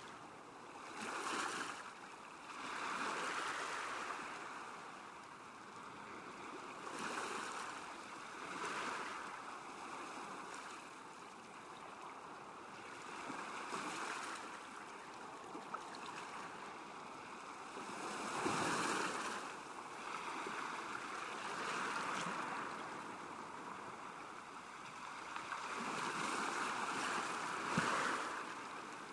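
Small waves lapping at a lakeshore, washing in and drawing back in uneven swells every few seconds.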